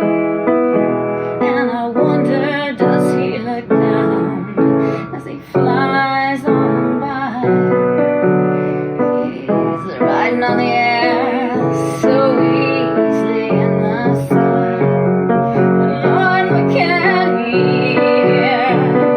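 A woman singing a slow song with vibrato over a piano accompaniment.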